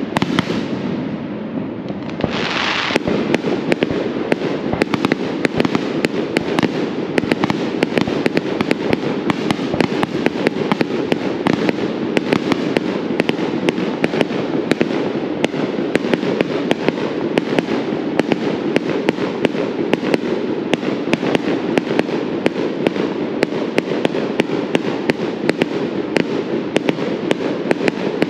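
Fireworks display: aerial shells bursting in a dense, continuous stream of sharp pops and crackles, with a brighter hissing burst about two seconds in.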